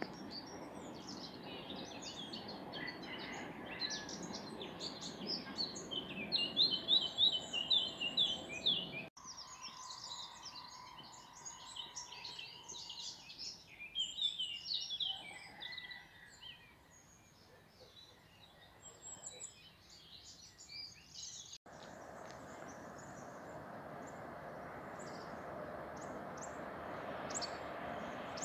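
Small birds chirping and singing, loudest about a quarter of the way in, over a faint distant rumble of rail traffic. About three-quarters through, the sound breaks off and a steady rushing noise of an approaching train builds slowly.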